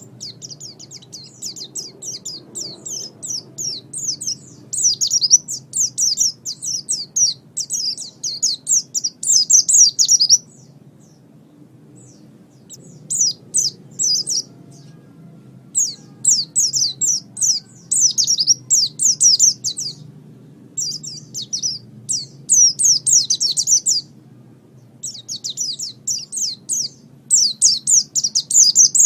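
White-eye (pleci) singing: a rapid, high-pitched twittering song in bursts of a few seconds, broken by short pauses of one to two seconds.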